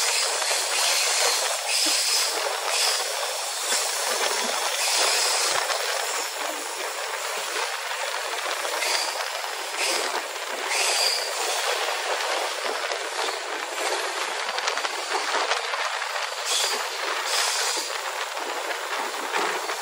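Passenger train running at speed, heard from an open coach doorway: a steady rush of wheel-on-rail noise and wind. Short high-pitched wheel squeals break through at irregular intervals.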